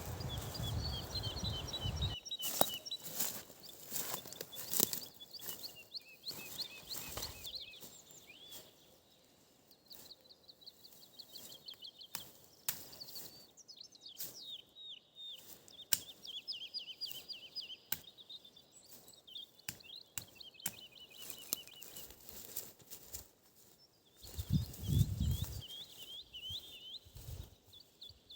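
Songbirds singing, with fast runs of high chirps and trills repeating throughout, and scattered sharp clicks and crackles underneath. A low rumble in the first two seconds and again about 25 seconds in.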